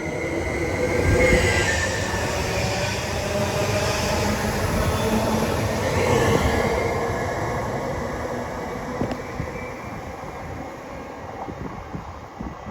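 Greater Anglia Class 755 multiple unit pulling out of the platform and moving off. It is loudest about a second in and again around six seconds in, then fades away as it leaves.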